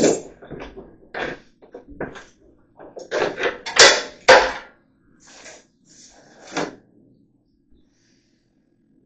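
Irregular wooden knocks, scrapes and rattles of old wall lath being pried and handled, loudest around three to four and a half seconds in and dying away about seven seconds in.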